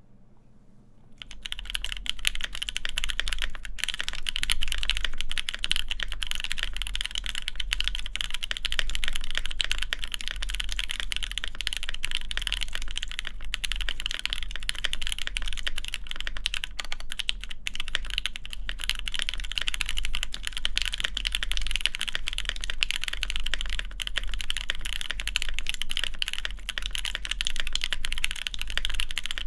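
Continuous, fast typing on a DriftMechanics Austin custom mechanical keyboard with lubed Alpaca linear switches, GMK keycaps and an FR4 plate, starting about a second in.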